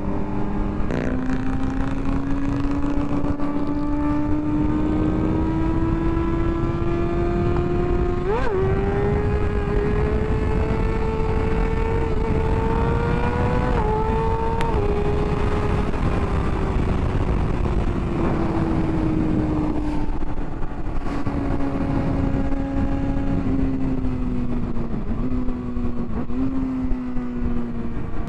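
Motorcycle engine running under way with a steady rush of wind, its pitch dropping at a shift about a second in, climbing slowly for the next dozen seconds, then falling off with a couple of downshifts near the end.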